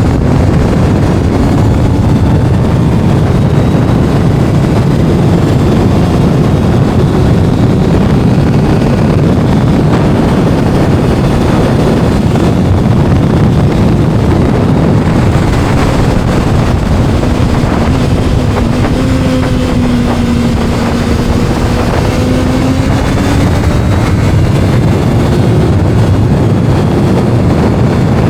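Heavy wind buffeting on the microphone over a Kawasaki inline-four sport motorcycle engine running at speed. Its note drops and then climbs again about two-thirds of the way through.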